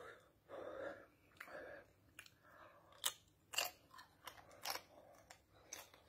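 A man chewing a mouthful of dry, very hot corn chips. The chewing starts soft, then from about three seconds in comes a run of sharp crunches about every half second.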